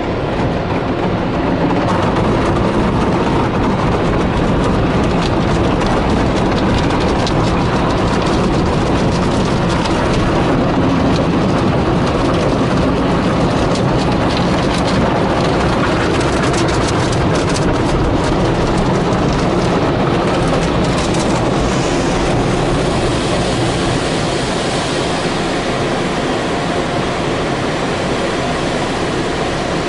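Automatic car wash machinery running: a loud, steady mechanical rumble with clattering and rattling, busiest in the middle.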